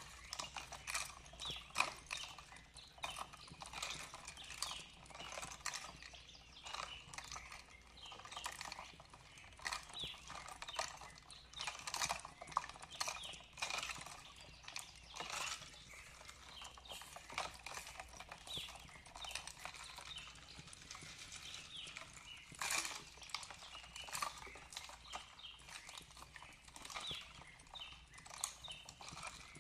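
Wood fire crackling: irregular snaps and pops over a faint steady hiss.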